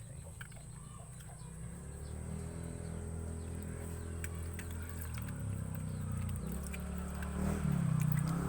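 Fuel-injected Yamaha Vixion single-cylinder motorcycle engine running, its low note growing louder from about two seconds in and shifting in pitch a couple of times.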